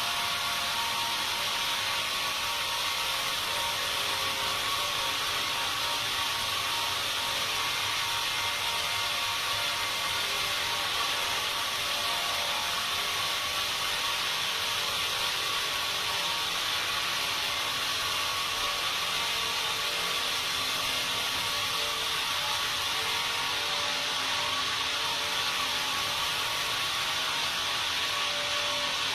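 Sawmill machinery running steadily, an even noise with a few faint steady tones and no breaks.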